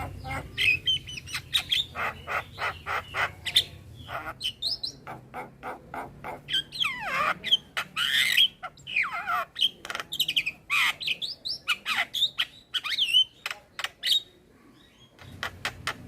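Male Javan myna singing a long, varied song: rapid clicking notes, whistled up-and-down glides and harsh squawks, with a brief pause about fourteen seconds in.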